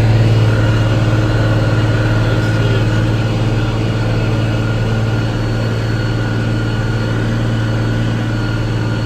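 Tractor engine running at a steady drone while pulling a dirt pan.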